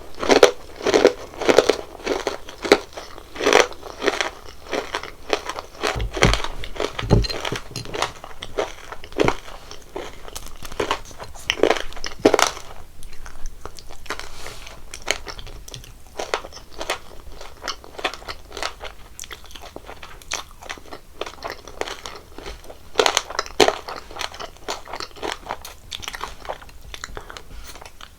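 Close-miked biting and chewing of sugary jelly and candy, with crisp, crackly crunches. The crunching is dense and quick at first, settles into slower, sparser chewing, then picks up again in a short burst near the end.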